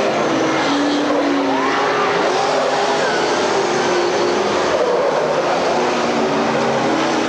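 Several dirt-track race car engines running at once, their overlapping notes rising and falling in pitch.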